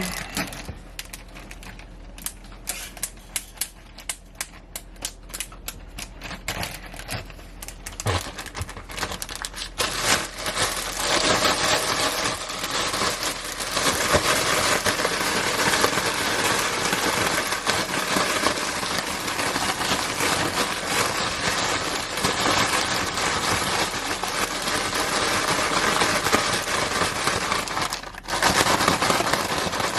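Plastic bag holding shrimp and seasoning, crinkling and rustling as it is handled. It starts as scattered sharp crinkles, then from about ten seconds in turns into dense, continuous rustling as the bag is shaken to coat the shrimp, breaking off briefly near the end.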